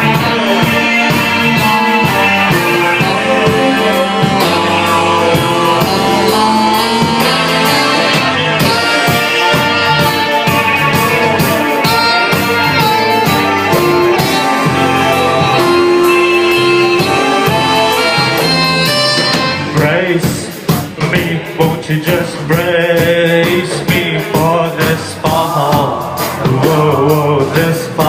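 Live rock band playing a song with a singer, guitar and rhythm section. About two-thirds of the way through, the music turns choppier, with short breaks between the notes.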